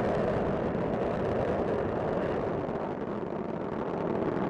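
Space Shuttle Discovery's solid rocket boosters and main engines during ascent: a steady, deep rumble.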